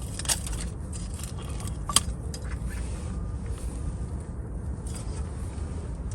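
Light clicks and scrapes of small objects being handled, the sharpest about two seconds in, over a steady low rumble.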